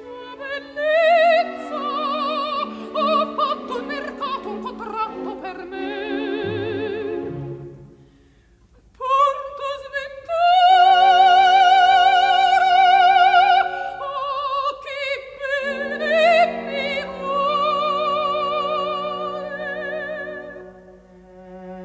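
Operatic soprano singing an aria with wide vibrato over orchestral accompaniment. There is a brief pause about eight seconds in, then a loud high held phrase.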